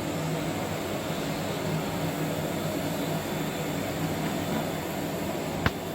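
Steady mechanical hum with a rushing air noise, and one sharp click near the end.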